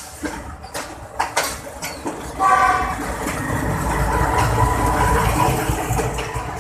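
Train wheels clicking over rail joints, then a short horn blast about two and a half seconds in, followed by a rising low rumble as a diesel locomotive passes close on the next track.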